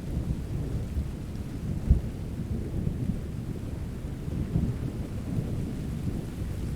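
Low, continuous rolling thunder under steady rain, with a sharper low crack about two seconds in.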